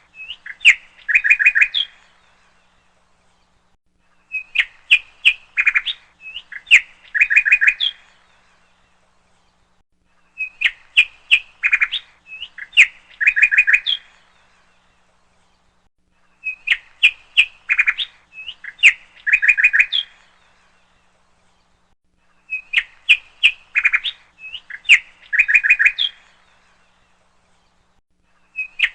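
Bird chirps on a repeating loop: the same phrase of quick chirps and short trills comes back about every six seconds, with brief gaps of silence between.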